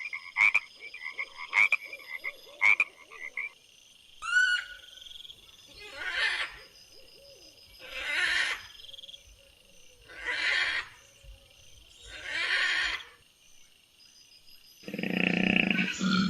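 Animal calls: quick, sharp clicking calls in the first few seconds, then five raspy calls, each about a second long and about two seconds apart. A louder, deeper animal call starts near the end.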